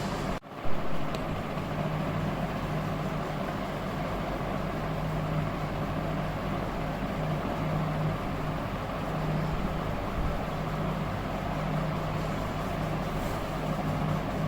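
Steady low hum and hiss of background noise, broken by a very short dropout about half a second in and followed by a brief bump.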